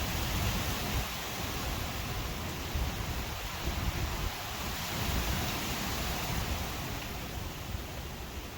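Strong wind blowing in gusts: a steady rushing hiss with an uneven low rumble of wind buffeting the phone's microphone, easing a little near the end.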